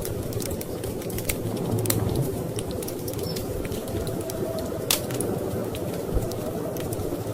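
Wood fire crackling, with many small sharp pops and one louder pop about five seconds in, over a steady low rumble of storm wind.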